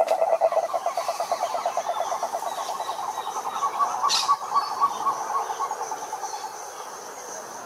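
Frogs calling: a fast, rapidly pulsed croaking that fades over the first few seconds, overlapped by another frog's slower series of pulses, about five a second. A high steady buzz runs behind them, and there is a sharp click about four seconds in.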